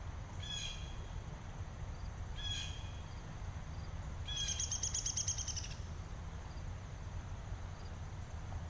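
A songbird gives two short, high calls about two seconds apart, then a rapid trill lasting about a second and a half, over steady low outdoor background noise.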